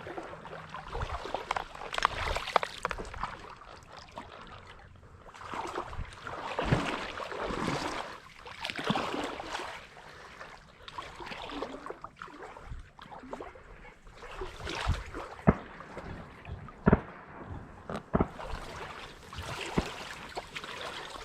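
Water sloshing and splashing in irregular swells, with a few sharp knocks about fifteen and seventeen seconds in.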